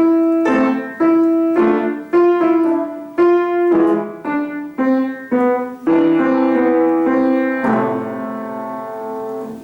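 Piano being played: single notes and chords struck about twice a second, ending with a final chord struck near the end and held for about two seconds before it is released.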